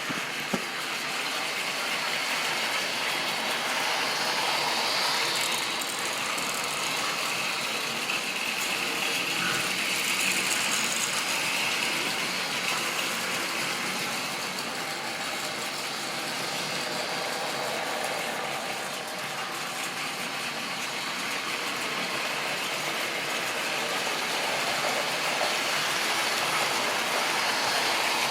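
Model railway train running on its track: a steady mechanical whirring and rattling of the motor and wheels that swells and fades as the train goes round.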